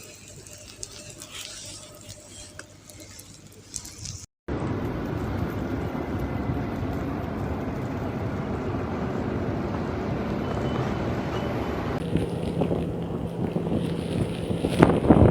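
Outdoor street noise of vehicles moving through snow, a steady rushing sound broken by an abrupt cut about four seconds in, with a low steady hum joining later.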